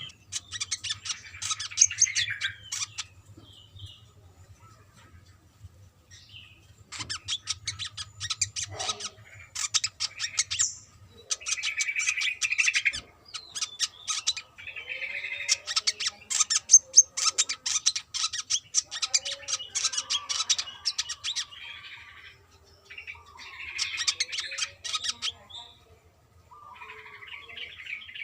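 Brown-throated sunbird singing loudly: phrase after phrase of rapid, high, chattering twitters, each lasting a second or two, with brief pauses between them.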